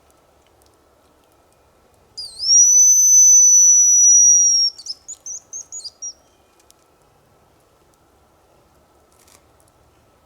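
Hazel grouse decoy whistle blown to imitate the bird's song and lure it in: one long high whistle that dips briefly at the start and holds steady for about two and a half seconds, then a quick run of about six short chirping notes.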